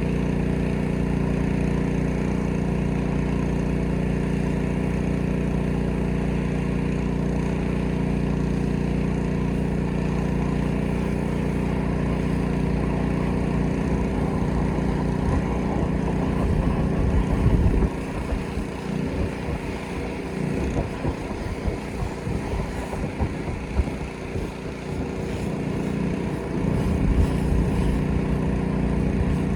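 Petrol pressure washer engine running steadily. About two-thirds of the way through it turns uneven and slightly quieter for several seconds, then steadies again.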